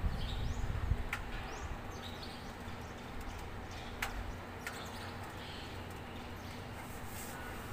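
Small birds chirping in short, high, falling calls, with a few sharp clicks and a brief low rumble at the start.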